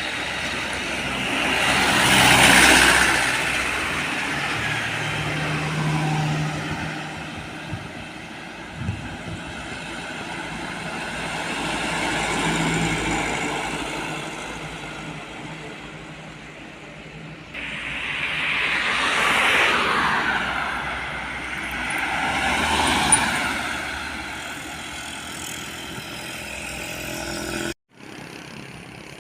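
Heavy road vehicles such as trucks passing by one after another, each swelling up and fading away. The sound cuts off suddenly near the end.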